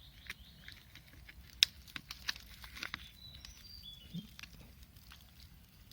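Light scattered crackles and clicks, like dry leaves and twigs being stepped on or handled, with one sharp snap about one and a half seconds in. A few faint high chirps come near the middle.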